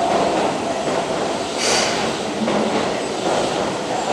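Keihan 6000 series electric train running slowly into the platform, its wheels and running gear giving a steady rumble. A short high-pitched sound comes about a second and a half in.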